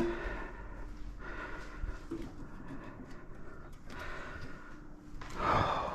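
A person's breathy exhale or snort near the end, over quiet handling noises with small clicks.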